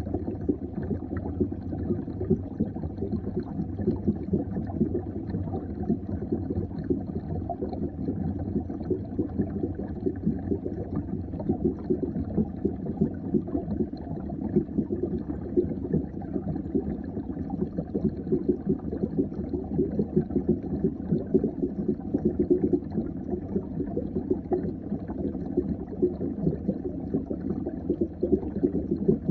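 Water heard from underwater: a steady, muffled low rumble with a fine bubbling crackle.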